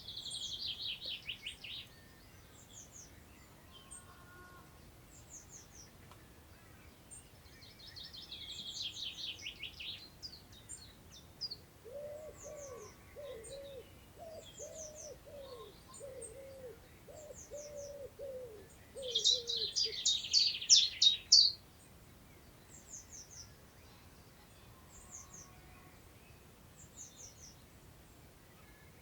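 Wild birds singing: three loud bursts of fast, high trilled song, each about two seconds long, near the start, around nine seconds in, and loudest around twenty seconds in. Through the middle a lower-pitched call repeats about once a second, and faint short high chirps come and go throughout.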